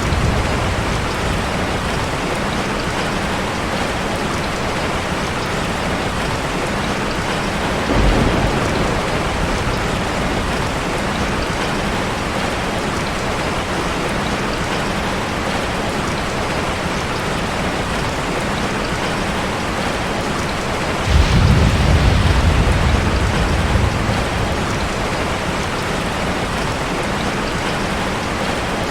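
Heavy rain falling steadily on a car. A short burst of thunder comes about eight seconds in, and a longer, louder low thunder rumble about 21 seconds in, lasting roughly three seconds.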